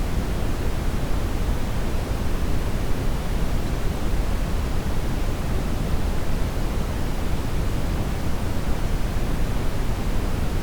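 Steady brown noise: an even rushing hiss, strongest in the deep low end and thinning toward the highs, with no change.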